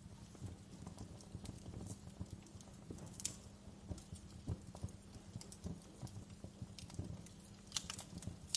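Wood fire in a fireplace crackling: irregular small snaps and pops over a low steady rumble, with a sharper pop about three seconds in and another near the end.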